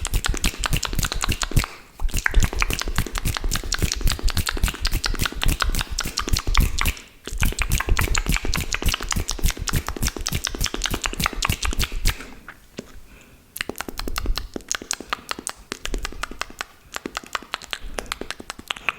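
Close-miked wet mouth sounds: rapid, dense clicking and smacking of saliva, with two brief pauses, thinning out to sparser, quieter clicks over the last third.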